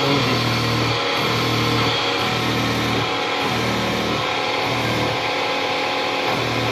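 Metal lathe running and turning stock, a steady whine with many tones, over music with a bass line that changes note every half second or so.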